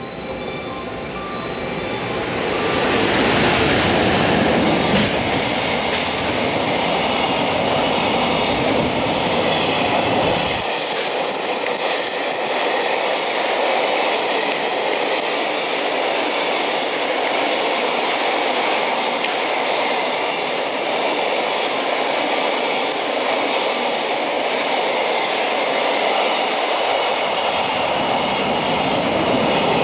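A JR Freight EF210 electric locomotive hauling a long container train runs past close by. The sound swells as the locomotive arrives about two to three seconds in. It then holds steady as the container wagons roll by, with wheels clattering over the rail joints and a few brief wheel squeals.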